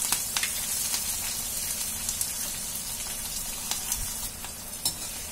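Freshly added chopped green chillies sizzling in hot mustard oil in a kadhai: a steady frying hiss with scattered pops.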